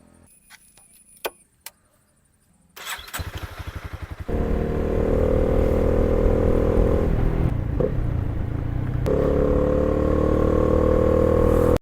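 A few faint clicks, then the Honda CB300R's single-cylinder engine cranking on the electric starter for about a second and a half before it catches and runs. Its pitch rises gradually near the end.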